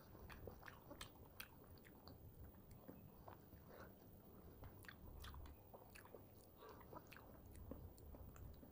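Close-miked eating sounds: a person biting into and chewing fried food, with many small sharp clicks and crackles scattered throughout.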